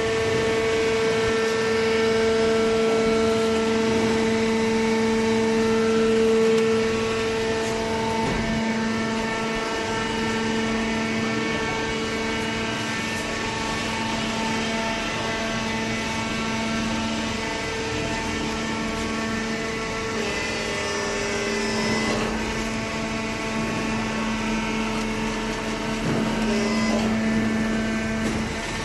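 Hydraulic power unit of a double-cylinder vertical carton baler running: a steady motor-and-pump hum whose tones shift in strength every few seconds as the cylinders work.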